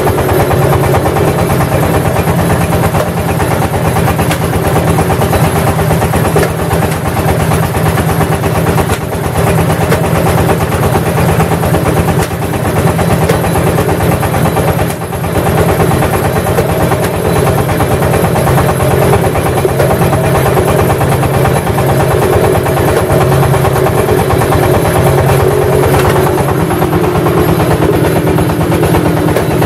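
Engine-driven clay brick press machine running steadily and loudly.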